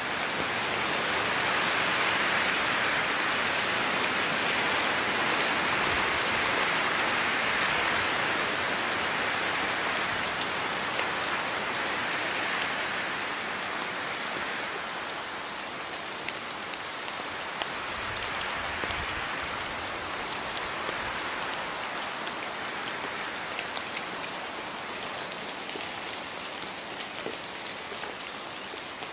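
Steady rain falling, with many individual drops pattering sharply on surfaces close by. It swells heavier in the first half and eases a little toward the end.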